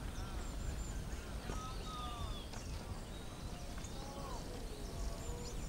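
Birds calling in woodland: short arching whistled calls and higher thin chirps, scattered one after another over a steady low background rumble.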